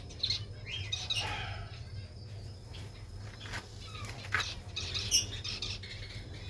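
Small cage birds chirping in an aviary, many short high calls overlapping, with brief wing flutters. A steady low hum runs underneath.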